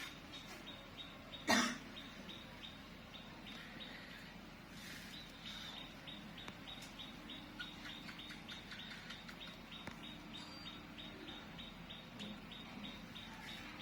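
A bird chirping over and over, short high chirps about three a second, with one loud short cough-like sound about a second and a half in.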